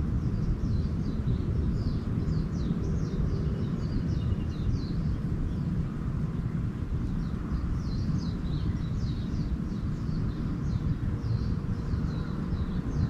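Small birds twittering in quick runs of short high chirps, one run in the first few seconds and another from about halfway on, over a steady low rumble that is the loudest thing throughout.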